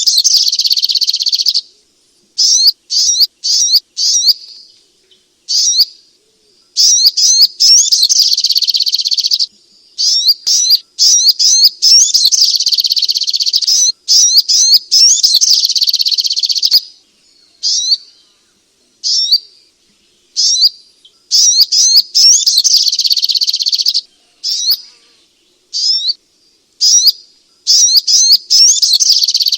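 Spiderhunter (sogok ontong) calling: volleys of sharp, rapid high chirps broken by short silences, several running on into dense chattering stretches two to five seconds long.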